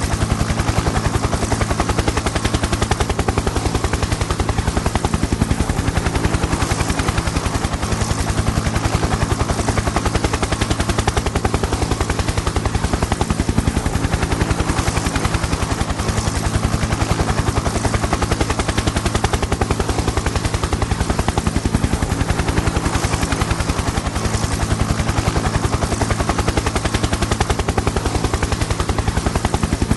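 Helicopter in flight: the fast, even chop of the rotor blades over a steady engine hum, holding level without change.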